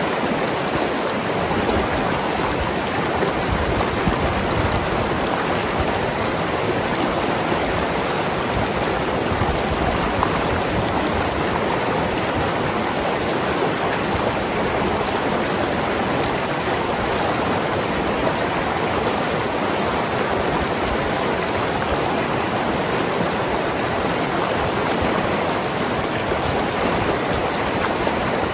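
Mountain river rushing and gurgling over rocks, a steady, unbroken sound of water.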